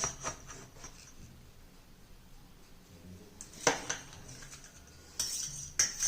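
A metal utensil clinks and scrapes against a dish as set barfi is cut and prised out. There are a few light clicks at the start, a sharper knock about a third of the way in, and a run of clinks near the end.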